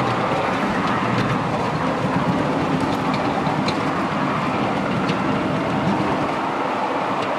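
Miniature ridable railway train running along the track: a steady rumble of wheels on rail with a few faint clicks.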